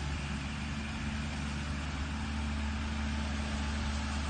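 Engine running steadily, a low even hum with no change in speed.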